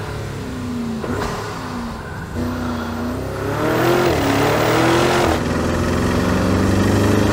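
Porsche Cayenne Turbo GT's 4.0-litre twin-turbocharged V8 revving and accelerating, its pitch rising and falling. The sound comes in several short clips that cut abruptly from one to the next.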